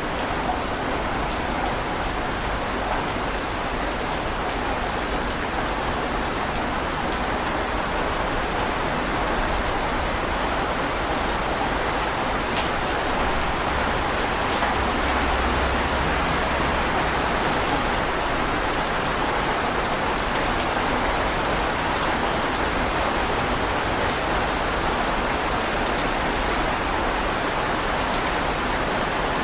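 Steady heavy rain falling, a dense even hiss with scattered fine drop ticks.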